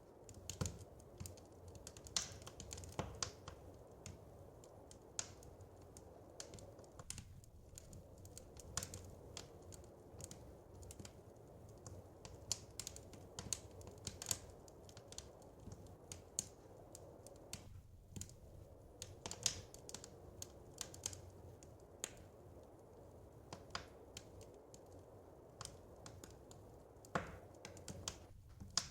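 Wood fire crackling in a fireplace: irregular sharp pops and snaps over a soft, steady low rumble.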